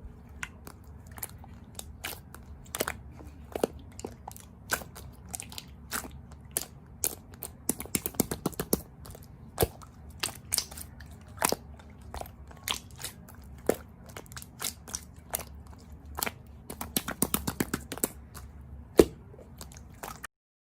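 Irregular sharp clicks and crunches close to the microphone over a low steady hum, thickening into quick clusters twice, with one loudest click near the end before everything cuts off.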